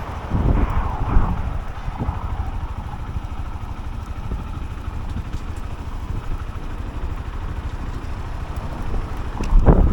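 A Honda CB125F's small single-cylinder engine running as the motorcycle is ridden, under a steady low rumble of wind on the action camera's microphone. Louder surges come about half a second in and again near the end.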